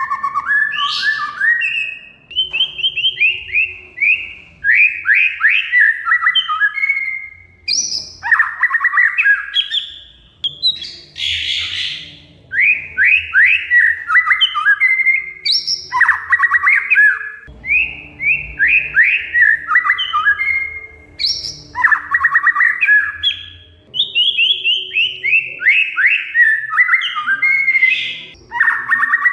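Oriental magpie-robin (kacer) singing in full voice. It repeats phrases of one to two seconds, each a rapid chatter of short, falling notes, with brief pauses between them.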